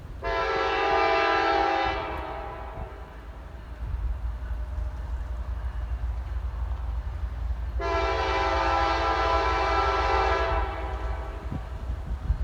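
Freight locomotive horn sounding two long blasts, the second a little longer, with a steady low rumble underneath.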